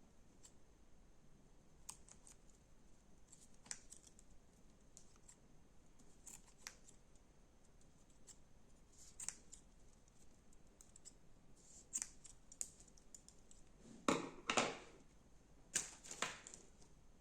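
Crunchy slime being handled: scattered small crackles and clicks, with a few louder crunches about fourteen and sixteen seconds in.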